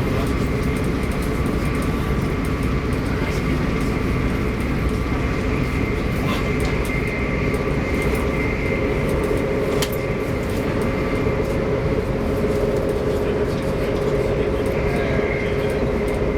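Arlanda Express electric train running at a steady speed: a constant rumble of wheels on track with a steady whine over it. There is a single sharp click about ten seconds in.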